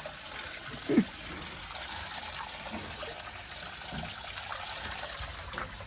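Water running and splashing steadily, washing down a tractor, with a brief voice-like sound about a second in.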